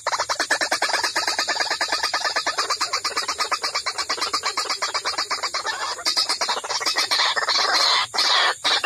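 White-breasted waterhen (ruak-ruak) calls from a bird-trapping lure recording: a fast, even run of repeated notes, about ten a second, that turns into louder, harsher squawking near the end.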